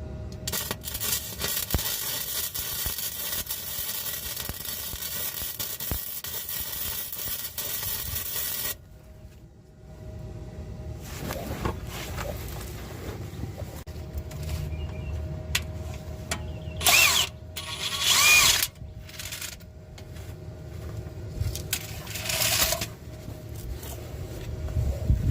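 MIG welder laying a weld bead on a rusted car exhaust pipe to seal a leak: a steady crackling buzz for about eight seconds, then several short bursts of tack welding.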